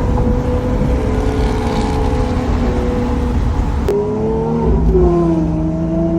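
Lamborghini Aventador SV's V12 running through a Capristo exhaust with a steady engine note. About four seconds in there is a sharp click and the note drops to a lower pitch, then slowly rises again.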